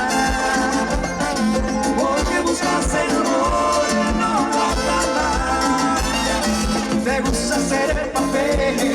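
Live Latin tropical dance band playing an instrumental passage, with melodic lines over a steady low beat about twice a second.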